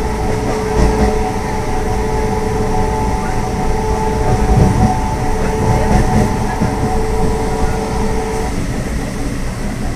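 Suburban electric local train running along the track, heard from inside the carriage at an open barred window: a steady rumble of the wheels on the rails with a few louder knocks. A steady hum over it cuts out about eight and a half seconds in.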